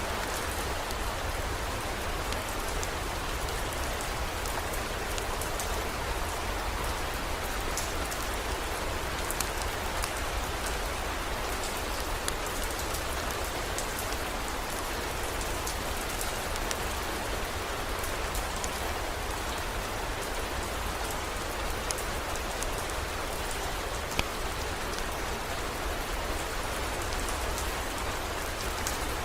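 Heavy rain falling steadily, an even hiss with scattered faint ticks and a steady low rumble underneath.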